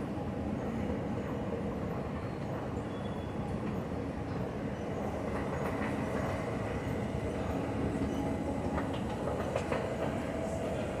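Train running on rails: a steady rumble with faint humming tones and a few light clicks.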